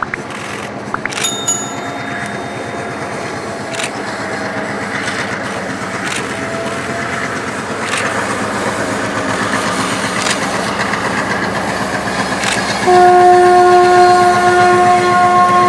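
Diesel locomotive hauling passenger carriages, its engine running with regular clicks of wheels over the rails. About 13 seconds in its horn sounds one long, loud blast, the loudest sound.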